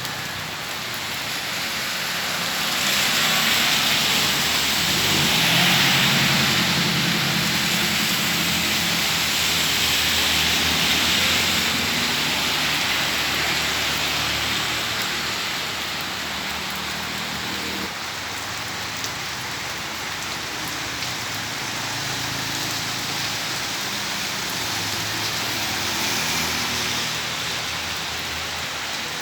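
Heavy rain pouring down steadily, with a motor vehicle's engine running underneath; the engine is loudest from about three to twelve seconds in and drops away a little past halfway.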